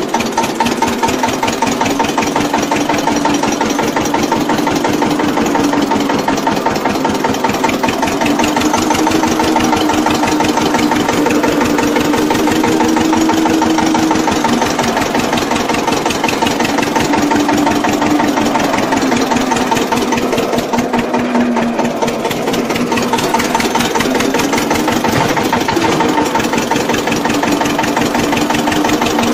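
Engine of a homemade mini tractor running steadily, its speed drifting slowly up and down.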